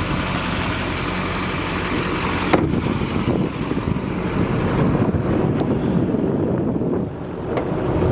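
6.6L Duramax turbo-diesel V8 of a GMC 3500 pickup idling steadily, with a sharp click about two and a half seconds in and wind rumbling on the microphone.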